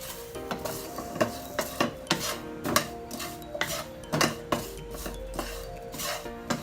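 A utensil stirring mango pieces and spices in a frying pan, with irregular clinks and scrapes against the pan about one or two times a second.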